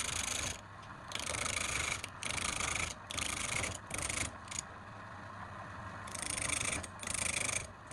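Repeated rasping strokes on wood, each about half a second to a second long, with short pauses between them. Around the middle the rasping turns quieter and steadier for a second or so.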